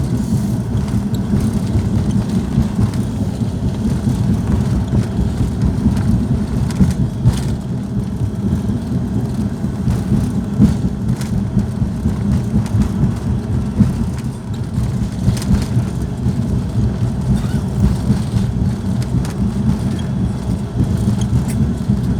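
Airliner cabin noise as the plane rolls on the runway after landing: a steady low rumble of engines and wheels, with a few light knocks.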